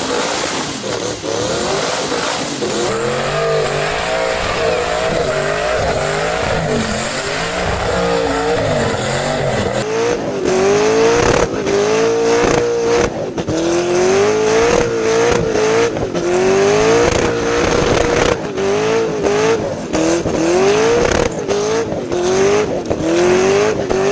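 Twin-turbo LSX V8 Holden Commodore revving hard again and again, each rev climbing in pitch and then dropping back, with sharp cracks from the exhaust in the second half.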